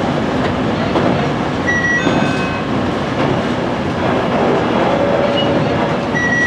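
Electric train running along the track, heard from on board: a steady rumble of wheels on rail with light clatter as it passes over points. Brief high tones sound twice, about two seconds in and near the end.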